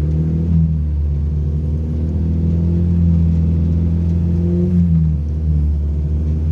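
Toyota Cynos EL44's 5E-FHE four-cylinder engine running at steady moderate revs under way, heard from inside the cabin; the revs ease off slightly about five seconds in.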